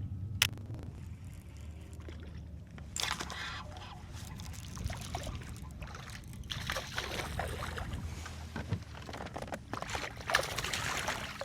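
Water sloshing and splashing around a fishing kayak in three noisy spells, over a steady low rumble.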